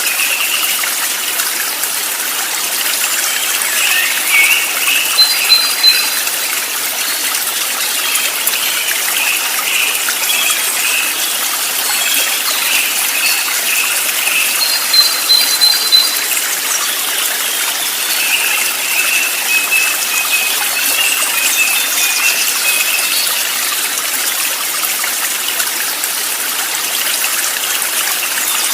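Steady rushing of flowing stream water, with small birds chirping over it throughout and short, high paired chirps about five seconds in and again around fifteen seconds in.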